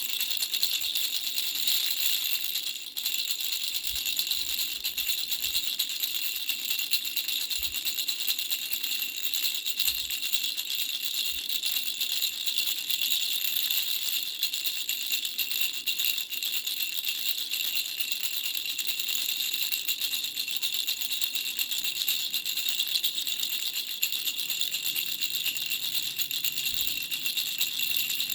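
Flower-shaped baby rattle shaken without stopping, a fast, steady jingling rattle with high ringing tones. It falters briefly about three seconds in.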